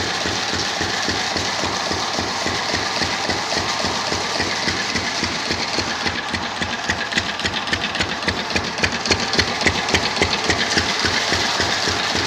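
Engine idling with an even, low beat of about four to five pulses a second. From about six seconds in, a rapid clicking rattle rides over it for several seconds, the loudest part of the sound, then fades back.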